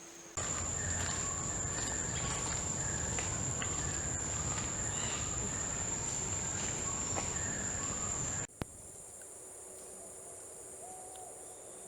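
Rainforest insects droning with a steady, high-pitched whine over a low rumbling noise. The sound stops abruptly about eight and a half seconds in, then continues more quietly at a slightly different pitch.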